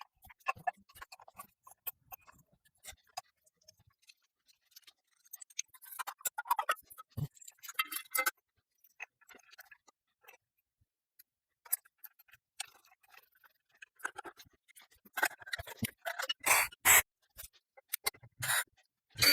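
Intermittent clicks, taps and light scrapes of metal and plastic fan parts and small hardware being handled and fitted together during ceiling fan assembly. There is a single low knock about seven seconds in, and a run of louder sharp clicks in the last few seconds.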